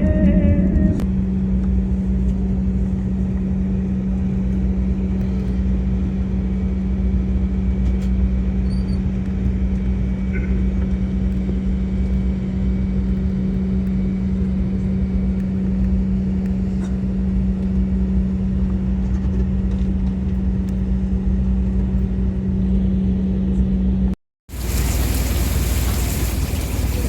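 Steady low rumble with a constant droning hum, as heard inside a moving vehicle. After a sudden cut about 24 seconds in, a loud even hiss takes over.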